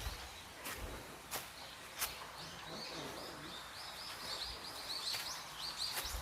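A small bird chirping in a rapid string of short high notes, starting about two and a half seconds in. Sharp clicks of footsteps come roughly every two-thirds of a second, over a faint steady outdoor hiss.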